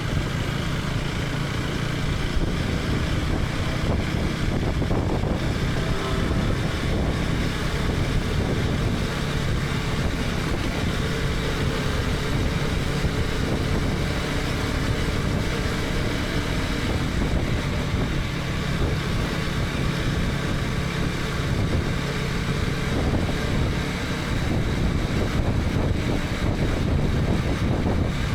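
KTM 250 Adventure's single-cylinder engine running steadily while riding, heard from the rider's helmet camera along with road and wind rush.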